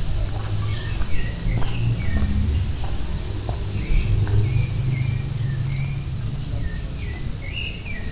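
Many birds chirping in rapid, high-pitched falling notes, with some lower chirps among them, over a steady low rumble.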